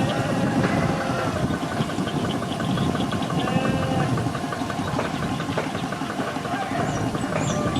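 Single-cylinder diesel engine of a walk-behind hand tractor running steadily with a regular knocking beat.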